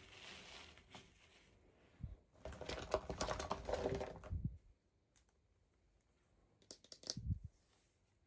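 Hands unboxing a toy, handling its plastic and cardboard packaging: a knock, a couple of seconds of rustling and clattering, then a few scattered clicks and a thump near the end.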